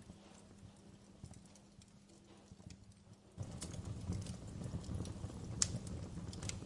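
Wood fire crackling in a fireplace: sharp pops and snaps over a low rumble of burning. About three and a half seconds in it gets louder, with busier crackling.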